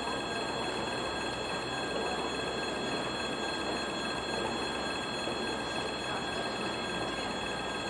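ChME3 shunting diesel locomotive running nearby: a steady rumble and noise with several constant high-pitched tones held over it.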